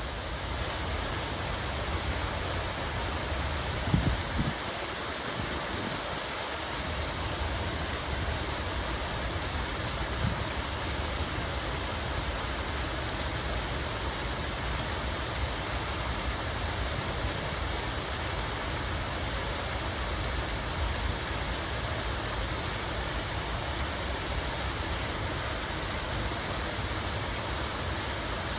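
Running water rushing steadily, a continuous even splashing, with a brief low thump about four seconds in.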